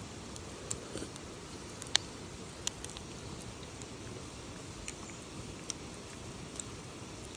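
Wood campfire crackling: irregular sharp pops, the loudest about two seconds in, over a steady low hiss.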